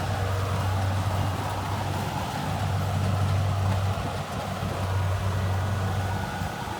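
Kubota rice combine harvester engine running steadily under a constant drone.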